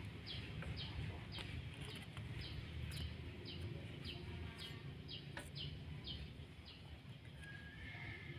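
A bird peeping over and over, short falling chirps about twice a second, with a single sharp click about five seconds in.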